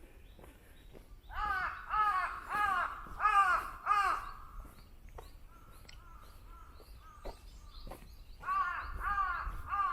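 A crow cawing: a run of five loud caws about two thirds of a second apart, then another run of caws near the end, with fainter bird calls in between.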